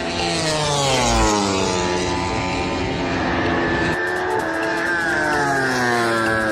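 MotoGP racing motorcycles, 1000 cc four-cylinder prototypes, passing at speed with their engine note falling in pitch. A second bike comes through about four seconds in.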